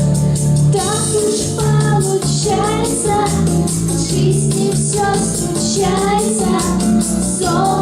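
A song with young voices singing a melody over instrumental accompaniment with a steady bass and a regular beat. The singing comes in about a second in.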